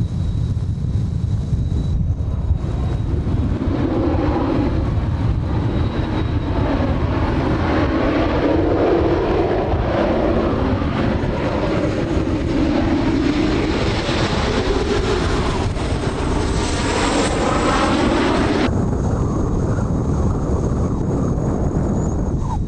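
Kawasaki T-4 jet trainers of the Blue Impulse flying overhead: their turbofan noise swells from about three seconds in, with a slowly shifting pitch as they pass, and its higher hiss cuts off abruptly a few seconds before the end. A steady deep rumble of strong wind on the microphone runs underneath.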